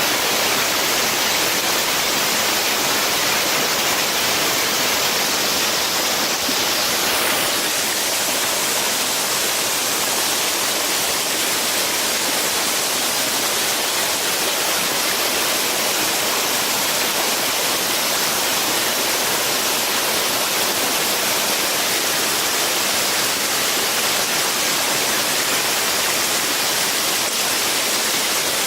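Steady, even rushing noise with no separate events; its high end shifts slightly about seven seconds in.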